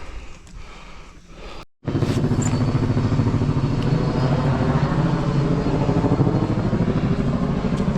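A motor vehicle's engine running steadily, starting abruptly about two seconds in after a cut; before it, a few faint knocks.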